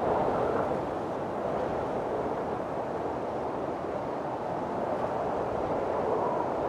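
Strong wind blowing in a windstorm: a steady rushing that swells a little near the end.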